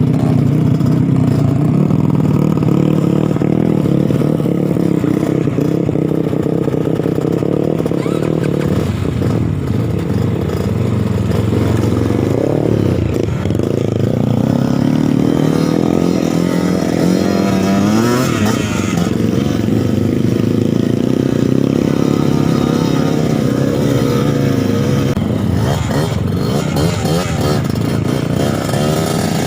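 Suzuki TS 125 two-stroke single-cylinder trail bike engine running under load off-road, its revs rising and falling repeatedly.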